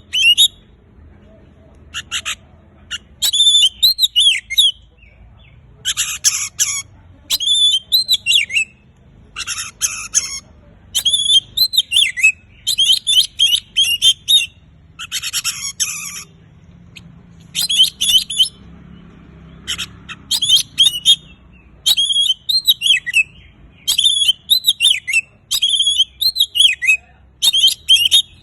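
Oriental magpie-robin (kacer) in full song, with loud, varied phrases of whistled notes and harsher rasping notes. Each phrase lasts about a second, with short pauses between them.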